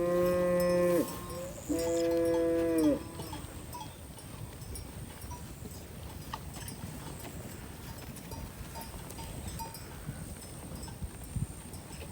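A cow mooing twice, two calls of about a second each in quick succession near the start.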